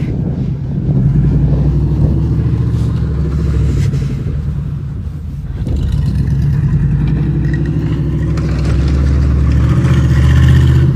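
Gasoline snowblower engine running steadily under load. It eases off briefly about five seconds in, then picks up again.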